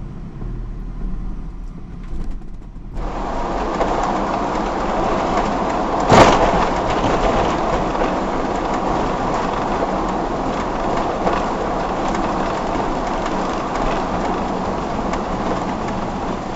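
Steady road noise from a moving motorhome. It jumps abruptly to a loud, even rushing about three seconds in, with a single sharp knock a few seconds later.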